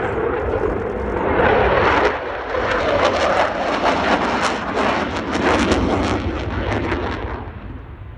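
Jet noise from a Eurofighter Typhoon's twin EJ200 turbofan engines flying a display manoeuvre close by. It is loud and rasping, with a crackle through the middle, and it dies away near the end as the jet moves off.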